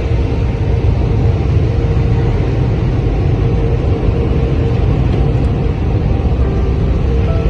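Automatic car wash running: a steady, loud, deep rushing noise with no breaks.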